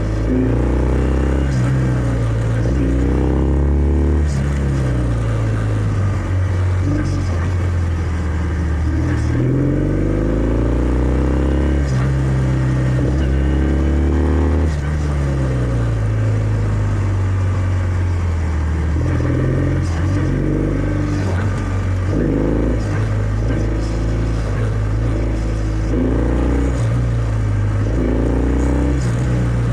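Kawasaki W650's air-cooled parallel-twin engine through its stock exhaust, riding along with the revs climbing and dropping back several times.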